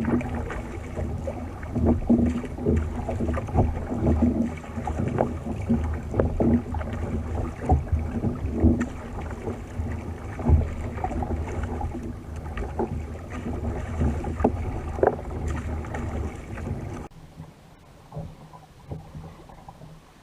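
A fishing kayak at sea: water noise and wind on the microphone, with frequent small knocks against the hull. About seventeen seconds in, the sound drops abruptly to a much quieter hush.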